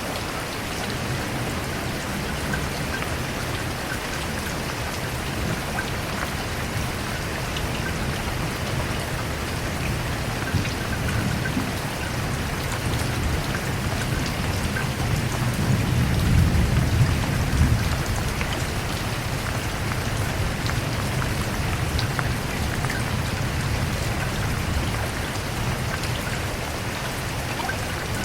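Steady rain falling, with a low rumble of thunder that builds and fades about halfway through.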